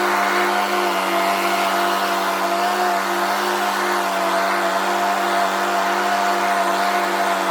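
Riding lawn tractor's engine running steadily at full throttle with the mower deck engaged, a constant hum of several steady tones.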